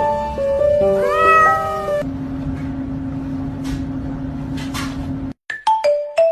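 A domestic cat meows once, about a second in, its pitch rising then falling, over background music. A steady low hum follows and cuts off, and a plinking tune starts near the end.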